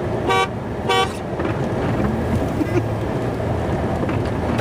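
A vehicle horn gives two short toots, about half a second apart, over the steady running of the plow truck's engine.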